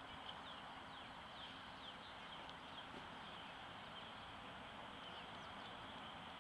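Small birds chirping in quick, short falling notes, thickest in the first half, over a faint steady outdoor hiss.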